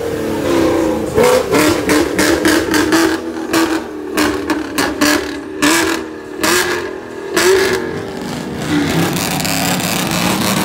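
Chevrolet Camaro engine revving in a series of blips, with sharp cracks between the revs, then settling to a steadier run near the end.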